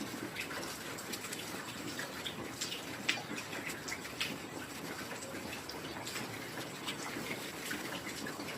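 Steady heavy rain, with individual drops splashing and dripping close by at irregular moments; one sharper drop stands out about three seconds in.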